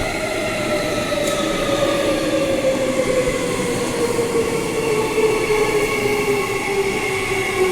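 Transperth B-series electric multiple unit pulling into the platform, its traction motors whining in a slowly falling pitch as the train brakes and slows.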